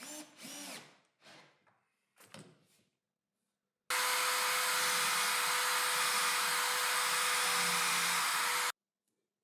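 Electric drill boring holes in a plywood workpiece: a few short, softer sounds with wavering pitch, then a steady loud run of about five seconds that starts and cuts off abruptly.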